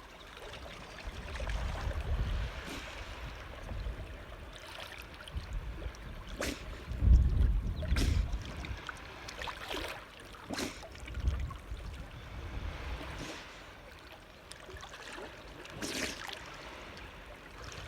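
Water lapping and splashing gently, with a few short, sharp splashes or knocks and patches of low rumble.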